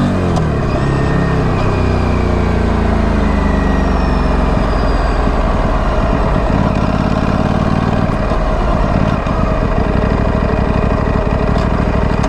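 Stock exhaust of a 2025 Aprilia Tuono 457's parallel-twin engine. The revs drop in the first second or so, then it runs at low, steady revs.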